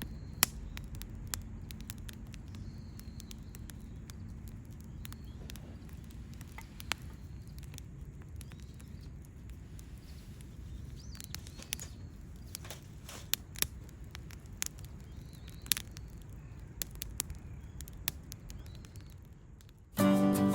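Wood campfire crackling: irregular sharp pops and snaps over a low steady rumble, with a few faint bird chirps. Acoustic guitar music comes in near the end.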